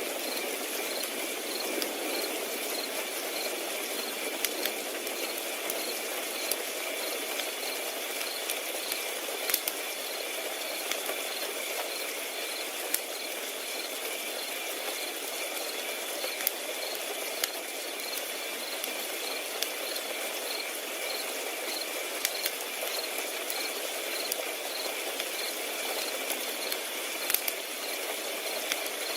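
Crickets chirping steadily in even, repeating pulses, over a wood fire crackling with soft hiss and scattered sharp pops every second or two.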